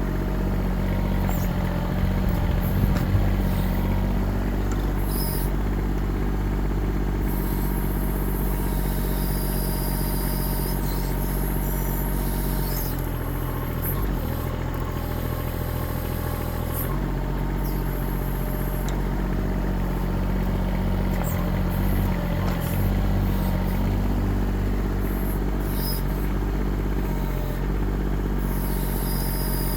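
Kubota diesel engine of a 1.6-ton mini excavator running steadily, with a few knocks about two to three seconds in. Its note shifts lower for a few seconds near the middle.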